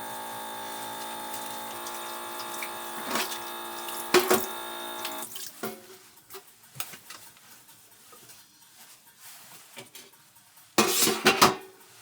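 Water running from a tap with a steady hum for about five seconds, then stopping, followed by light clinks of cookware and a louder clatter of dishes near the end.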